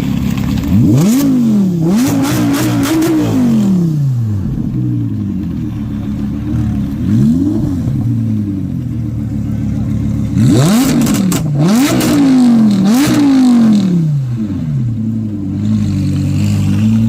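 A car engine idling and being blipped in quick revs, a burst of several revs in a row about a second in, a single one midway, and another burst about ten seconds in, with sharp crackles alongside the revs.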